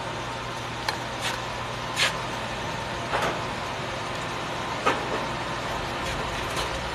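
Arc welding bead being run: a steady crackling hiss from the arc, broken by a few sharper pops, over a steady low hum.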